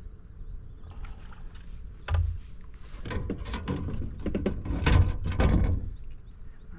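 Knocks and clatter of gear being handled in a fishing kayak: a single thump about two seconds in, then a run of irregular knocks and scrapes.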